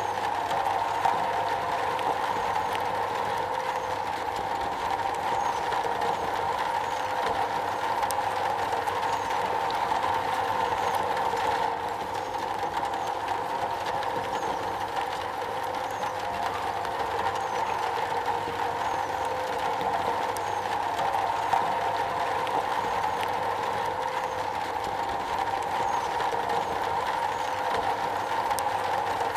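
Steady rain falling on a metal roof: a dense, even hiss with many fine ticks of individual drops.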